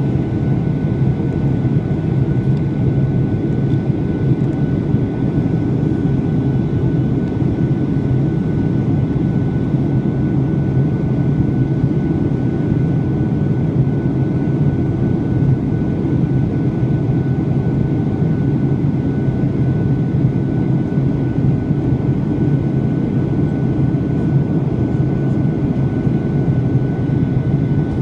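Steady cabin drone of a Boeing 737-800 airliner in flight: its CFM56 jet engines and the rushing airflow make an even, low rumble, with a faint constant whine over it.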